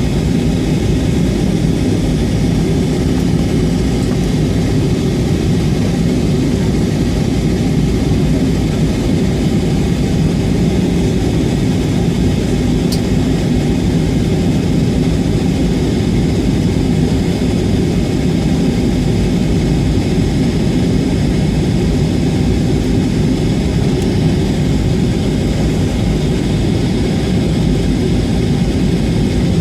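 Steady low drone of an Airbus A320's jet engines and rushing air, heard from inside the passenger cabin on approach.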